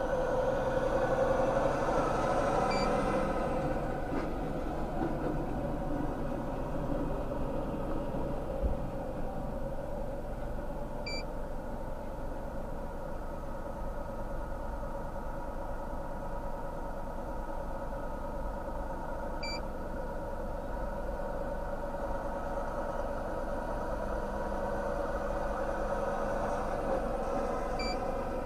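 A vehicle engine idling steadily, with a short high beep sounding about every eight seconds, four times in all.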